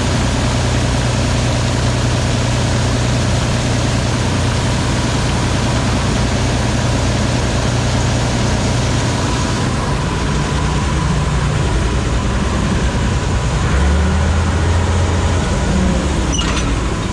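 Combine harvester running steadily, a constant low engine hum with a faint steady whine over it; the hum shifts lower around 14 seconds in.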